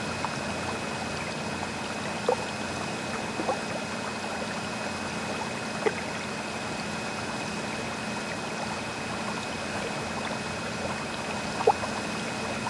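Steady trickling and splashing of water circulating in a laboratory seawater aquarium, with a few short pops scattered through it.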